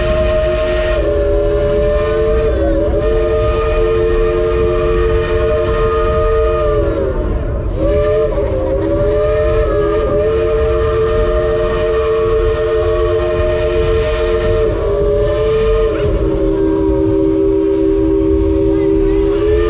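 Steam locomotive's chime whistle sounding one continuous chord of several notes, the engineer shifting its pitch up and down step by step to play a tune on it, over the steady rumble and hiss of the moving steam train.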